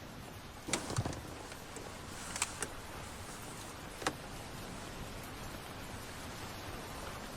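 Steady heavy rain, with a few sharp knocks and clicks in the first half, the loudest pair about a second in.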